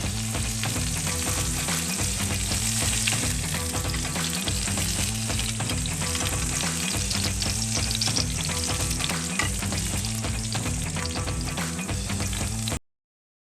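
Hamburg steak patties frying on a cast iron griddle, a steady hiss dense with fine crackles and spits of fat.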